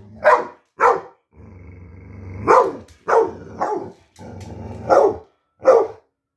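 Pet dog barking at a person, about seven sharp barks in a loose run, with low growling held between some of the barks.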